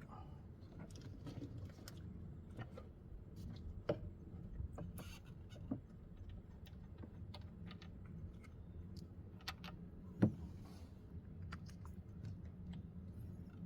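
Light, scattered clicks and small knocks of tools and parts being handled, with sharper knocks about four and ten seconds in, over a faint low hum. The engine is not running.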